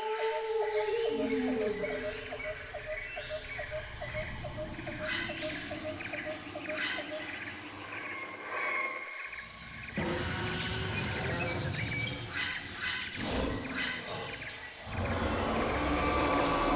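Jungle ambience: many birds calling and chirping over a steady background hiss. A regular ticking call repeats about twice a second for the first seven seconds, and the mix of calls changes abruptly about nine seconds in.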